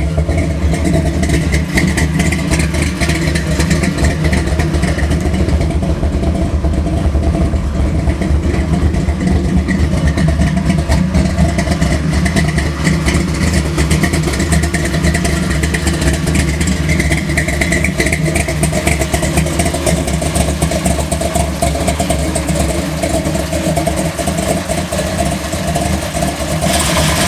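Big-block Chevy V8, a 454 bored .060 over to 496 cubic inches, running steadily through its exhaust pipes with no revving. It is loud and even, with a dense, rapid pulse.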